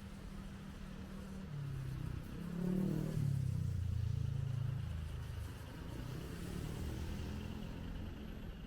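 A motor vehicle driving past on the street. Its engine note dips as it goes by, and it is loudest about three to five seconds in.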